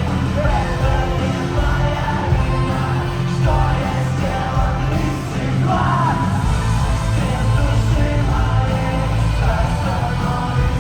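Live rock band playing a song with singing over heavy bass and drums, recorded from the audience, with the crowd yelling.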